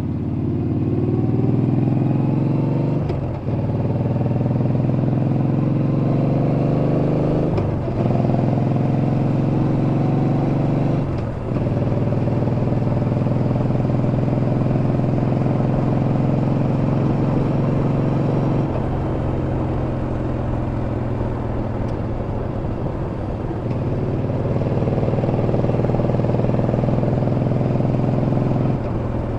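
Yamaha Bolt's air-cooled V-twin pulling through the gears: the engine note rises and is cut off by three upshifts in quick succession, then holds at a steady cruise. About two-thirds of the way in the pitch drops as the throttle eases off, and it climbs again under acceleration near the end.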